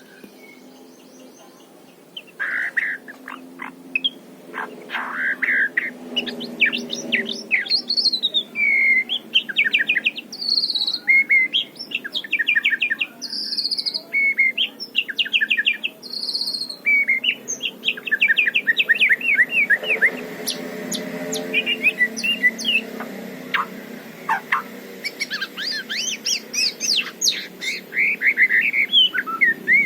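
White-rumped shama singing a fast, varied song of clear whistles, sweeping notes and rapid rattled note series, starting about two seconds in.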